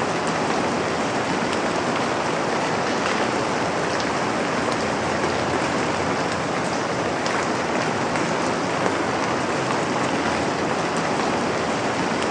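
Steady rain: a dense, even patter of raindrops with scattered small drop ticks on top.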